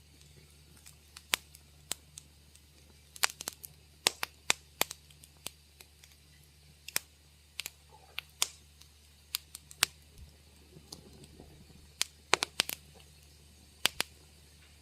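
Wood fire crackling in a fireplace: sharp, irregular pops and snaps scattered at random over a faint low hum.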